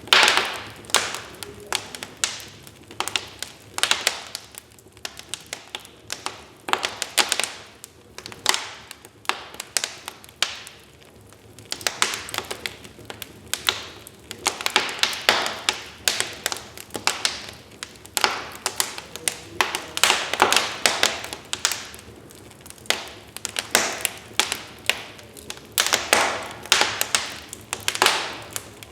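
Wood fire crackling in a fireplace: irregular sharp pops and snaps, thinning out for a few seconds partway through.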